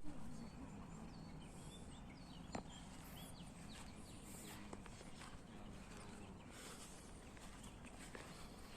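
Small birds chirping in scattered short calls over a faint, steady low rumble, with one sharp click about two and a half seconds in.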